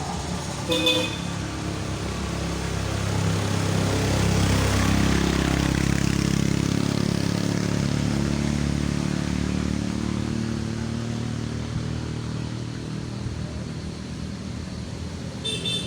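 A car engine pulling hard up a steep hill, getting louder about four seconds in, then its pitch slowly sagging as it labours. A short horn toot about a second in and another near the end.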